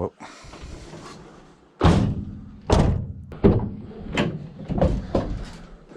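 Pieces of scrap metal being picked up and dropped, giving a series of about six heavy thunks and knocks starting about two seconds in. The first knock is the loudest and rings briefly.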